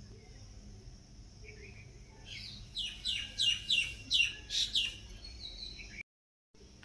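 A bird singing: a quick run of about seven loud, clear notes, each sliding downward, roughly three a second, starting a little over two seconds in, over a faint steady high hiss.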